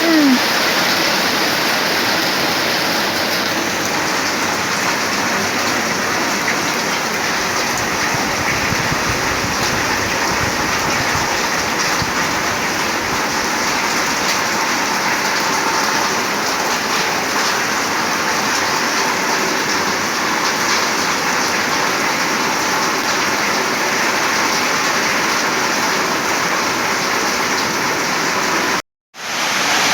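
Heavy rain pouring steadily in a storm, a dense even hiss. It cuts out abruptly for a moment near the end.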